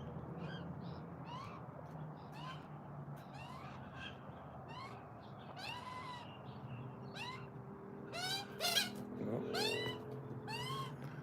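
Birds giving short, squeaky, meow-like calls that rise and fall in pitch, about one a second, several birds overlapping and growing louder a little after the middle.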